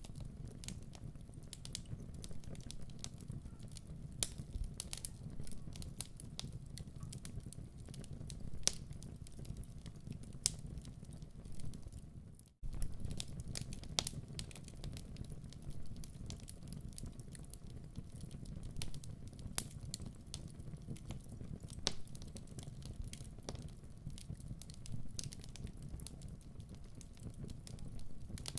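Fire crackling in a fireplace: a steady low rumble of flames with frequent irregular pops and crackles. The sound cuts out for a split second about halfway through.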